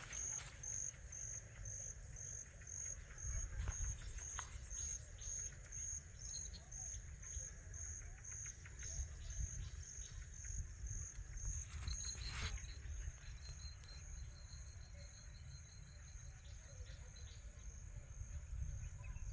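Insects chirping: one repeats a short high chirp about twice a second over a steady high-pitched insect drone, and a second, fainter and faster chirping joins for a few seconds past the middle. A low rumble and a few faint knocks lie underneath.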